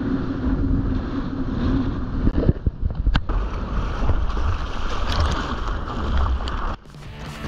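Strong wind buffeting the microphone with a heavy rumble, over the wash of rough surf. Music starts near the end.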